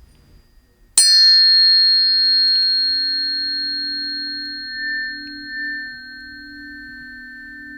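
A planetary tuning fork is struck about a second in with a sharp tap. It then rings on a steady low tone with clear high overtones, slowly fading with a slight waver.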